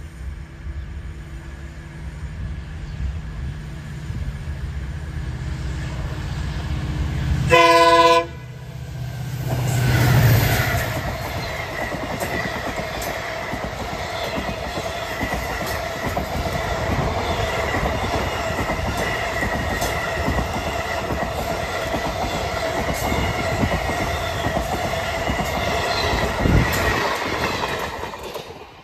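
Diesel-hauled passenger train approaching at speed, the locomotive's engine rising in loudness, then one short, loud horn blast. The locomotive rushes past about two seconds later, followed by the coaches: a steady roar of wheels clattering over rail joints with a high wheel squeal, which falls away near the end as the last coach goes by.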